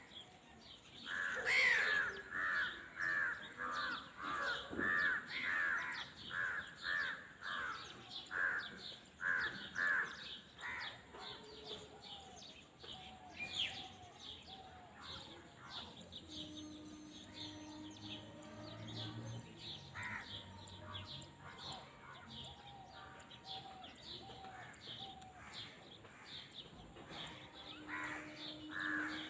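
A bird calling over and over in a rapid series, about two calls a second, for the first ten seconds or so. Fainter scattered calls follow, and the series picks up again near the end.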